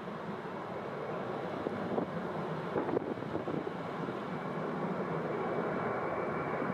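Steady rushing noise of a jet airliner with wind buffeting the microphone, a few brief gusts standing out.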